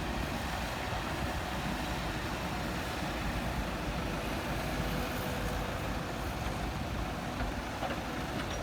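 Heavy vehicle engine running steadily: a continuous low rumble with no change through the stretch.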